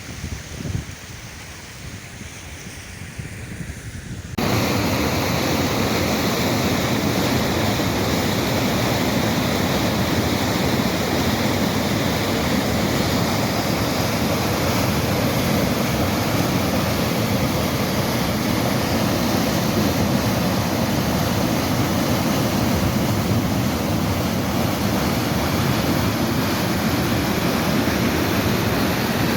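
Heavy rain pouring down in a dense, steady hiss. About four seconds in it jumps suddenly louder; before that the rain is fainter, with low wind rumbles.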